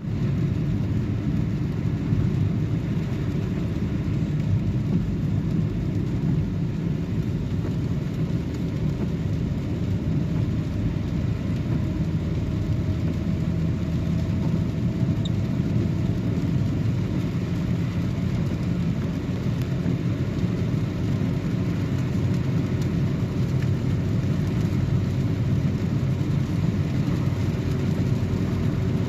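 Car driving: a steady low rumble of engine and road noise that holds at an even level throughout.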